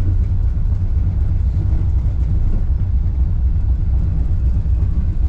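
Wuppertal Schwebebahn suspended monorail car running between stops, heard from inside the cabin as a steady low rumble.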